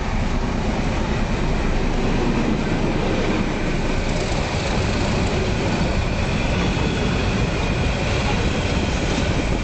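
Surma Mail passenger train running on the track, a steady loud rumble and rattle of the carriages on the rails.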